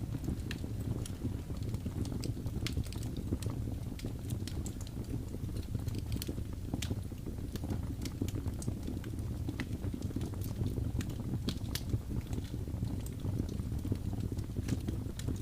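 Wood fire in a fireplace crackling: a steady low rumble of the burning fire with frequent sharp, irregular pops and snaps.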